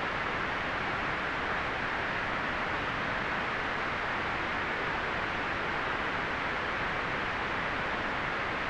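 Steady white noise: an even, unbroken hiss that holds the same level throughout, strongest in the upper middle range.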